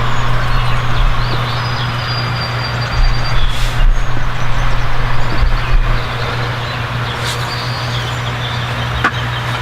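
A vehicle running: a steady low engine hum under a broad road hiss.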